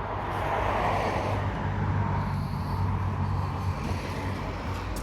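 An engine running with a steady low hum, louder for the first few seconds and then easing off.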